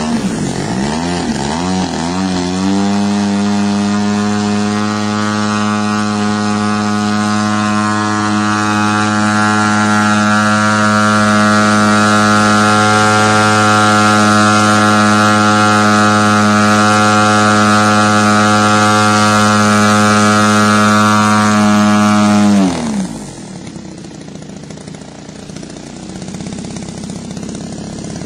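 RC model airplane engine (3MM TOC) run up from idle, wavering for a couple of seconds and then held at full throttle as a steady, high-pitched drone for about twenty seconds while its top-end RPM is checked during leaning of the high-end carburettor needle. Near the end it drops sharply back to a quieter idle.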